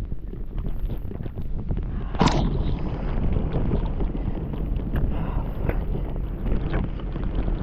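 Wind buffeting the microphone as a steady low rumble, with light ticks and one sharper noisy hit about two seconds in.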